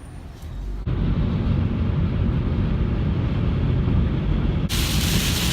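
A steady low rumble of a car being driven, then, near the end, an abrupt switch to the dense, steady hiss of heavy rain.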